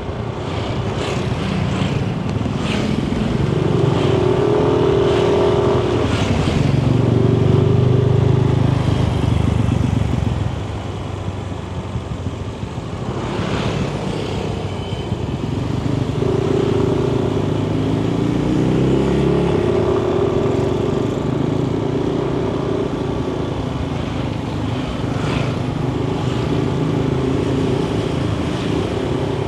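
Yamaha Nmax 155 scooter's single-cylinder four-stroke engine running on the road, its pitch rising as the scooter speeds up and then levelling off, twice, with an easing in between about ten seconds in.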